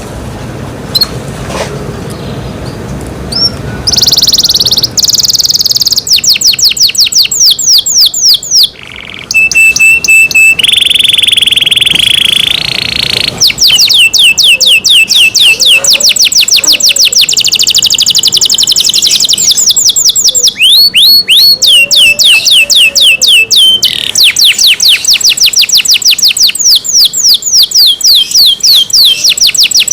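Domestic canary singing loudly: fast trills of rapidly repeated sweeping notes, broken by a held steady whistle and a longer buzzy note in the middle. The song starts about four seconds in, after a quieter low rumble.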